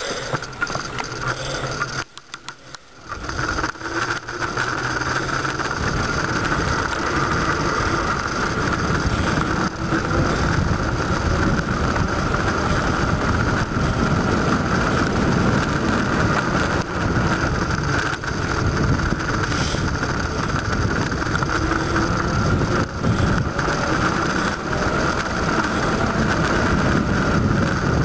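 Wind buffeting the microphone on a moving bicycle, with a steady whir from the tyres and drivetrain. It is briefly quieter about two seconds in, then loud and steady.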